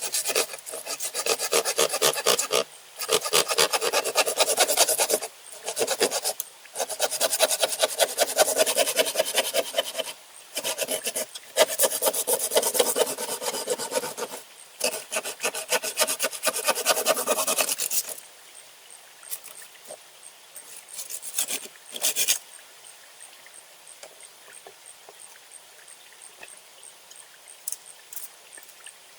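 Rapid back-and-forth scraping strokes in five bouts of two to four seconds with short pauses between them, then two brief bursts after about 18 s.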